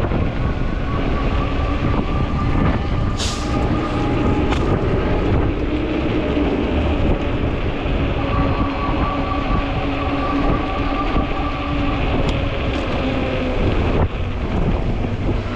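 Electric fat-tire bike under way: a steady whine from its hub motor over heavy wind buffeting on the microphone and tyre rumble, with a couple of sharp clicks about three and four and a half seconds in.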